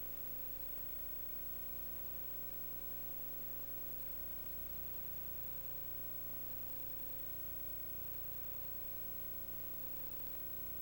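Steady electrical hum and hiss with a constant mid-pitched tone, unchanging throughout.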